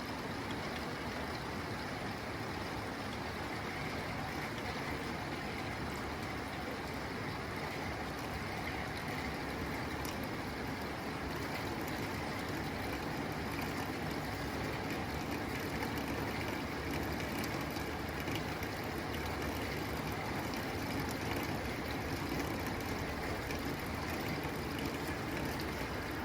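Rain falling steadily on a tin roof: a continuous even hiss of drops, with a few sharper single ticks.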